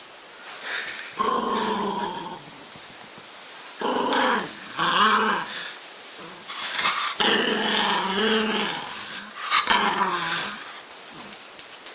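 A dog making drawn-out grumbling, growl-like vocal noises in about five bouts, the pitch bending up and down within each, with short pauses between.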